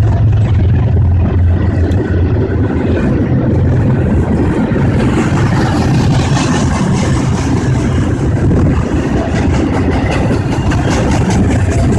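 A vehicle's engine running steadily and loudly, with a strong low hum and a rushing hiss that grows from about halfway on.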